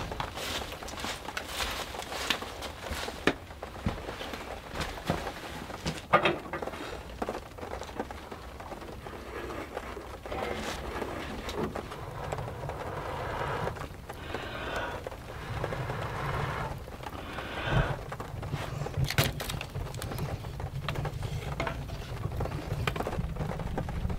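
Rain on the shed roof with wood crackling in a cast iron stove, sharp pops scattered throughout, and a denser spell of hiss in the middle.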